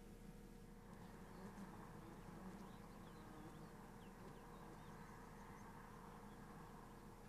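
Near silence: a faint steady hum with a few faint, short bird chirps scattered through the middle.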